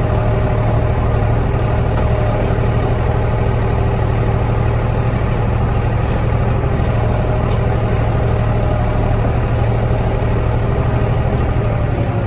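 Kioti DK65 tractor's diesel engine running steadily at a constant speed.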